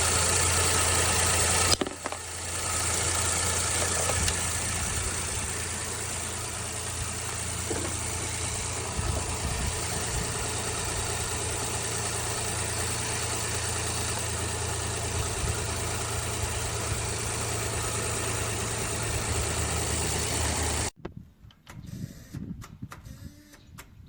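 A motor-driven machine running steadily: a low hum under a wide hiss, easing slightly about two seconds in and cutting off abruptly near the end.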